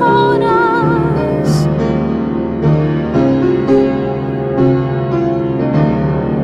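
Slow solo piano music, with a held note that wavers in vibrato over the chords for about the first second and a half.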